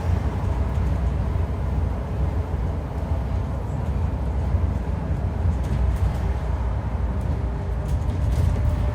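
Scania N230UD double-decker bus running: a steady low rumble with a faint, even howl over it, which the uploader thinks sounds like a dodgy bearing or worn-out tyres. A few light clicks come in the last few seconds.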